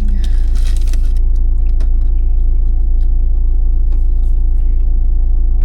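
A vehicle engine running, a steady low rumble heard from inside the cab, with a brief rustle in the first second or so.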